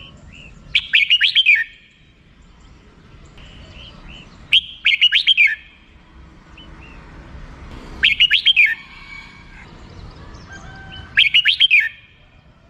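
Red-whiskered bulbul giving its rapid chattering 'rik' call: four short bursts of quick, high notes, each about a second long, coming roughly every three and a half seconds.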